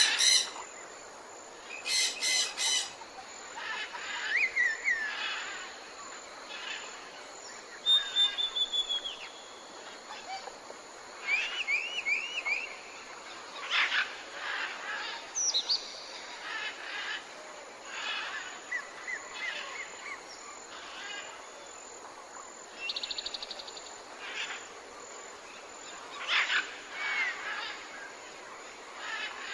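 Wild birds chirping and singing: many short calls, quick trills and whistled glides, one after another, over a steady background hiss.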